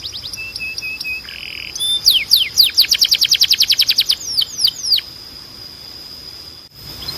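Domestic canary singing: rapid trills of falling whistled notes, about ten a second, preceded by a few short held notes, over a steady high tone. The song stops about five seconds in, leaving only the high tone, which briefly cuts out near the end.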